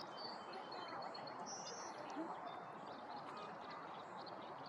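A small bird calling: a quick run of short high notes in the first second or so, then a brief high whistled note, over a steady background hiss.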